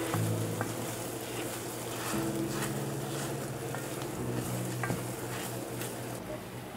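Food sizzling in a frying pan, with scattered clicks of a utensil stirring it. Soft held musical chords change about every two seconds underneath.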